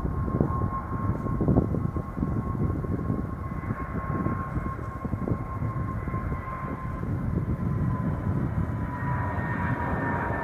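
Airbus A320 jet engines running: a steady low rumble with a high whine over it that drops slightly in pitch near the end, while a second, higher whine grows louder.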